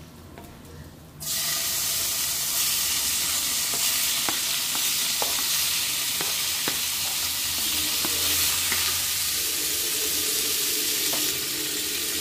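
Raw chicken pieces hitting hot butter in a nonstick frying pan, starting a sudden steady sizzle about a second in. A few light taps of the wooden spatula on the pan sound through the sizzle.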